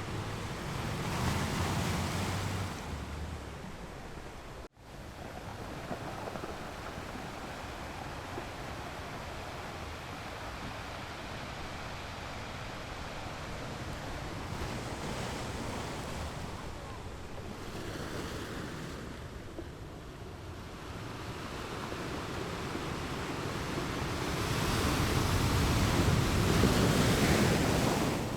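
Ocean surf: waves washing and breaking in a steady rush, swelling early on and building to the loudest wave near the end. A sudden split-second dropout about five seconds in, like an edit splice.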